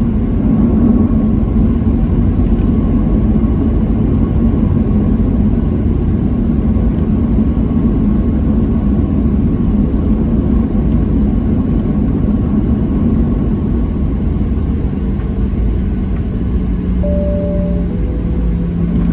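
Cabin noise inside a Boeing 737-700 taxiing: a steady low rumble and hum from its CFM56-7B engines at low thrust. Near the end a short steady tone sounds, and a lower steady hum comes in.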